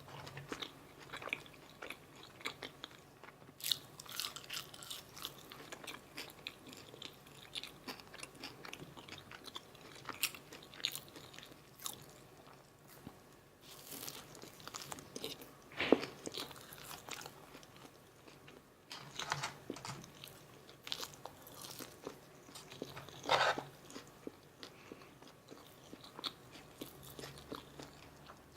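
Close-miked eating of a McDonald's Filet-O-Fish meal: irregular bites, crunches and wet chewing, with a couple of louder crunches midway and near the end.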